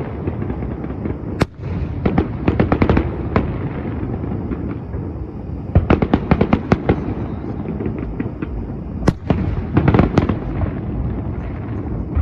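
Fireworks exploding over a constant low rumble: single heavy bangs a little over a second in and again about nine seconds in, with rapid volleys of cracks between them, around two to three seconds, six to seven seconds and ten seconds in.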